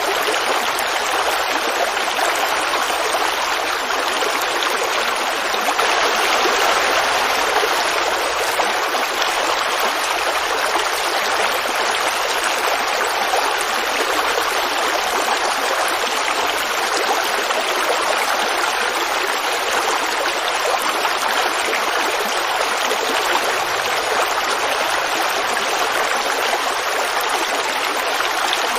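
Forest creek babbling steadily over rocks, a continuous rush of flowing water.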